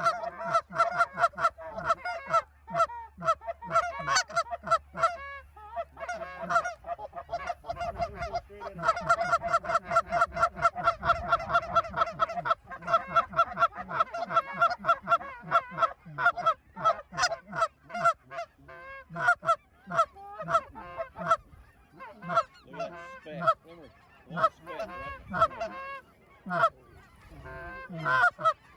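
A large flock of geese calling continuously: many short, high-pitched honks overlapping, a few a second, with a lull around six to eight seconds in before they pick up again.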